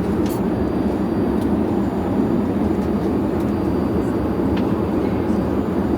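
Steady cabin drone of an Airbus A350-900 at cruise, the noise of its engines and the airflow past the fuselage heard inside the economy cabin, with a couple of faint clicks.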